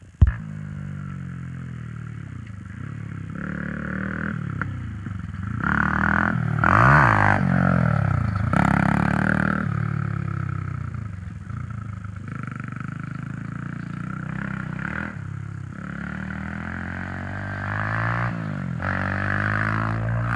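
Honda CRF100F dirt bike's small single-cylinder four-stroke engine revving up and down as it is ridden, its pitch rising and falling over and over. A sharp knock sounds right at the start.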